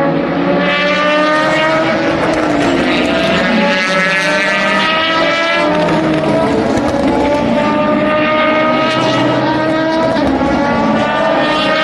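Several race car engines running hard at once, their pitch climbing steadily through long pulls in a gear, with a sharp drop at an upshift about halfway through before climbing again.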